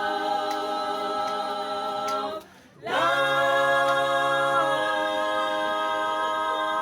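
A cappella gospel vocal group singing in close harmony: a long held chord that breaks off about two and a half seconds in, then a final chord held long.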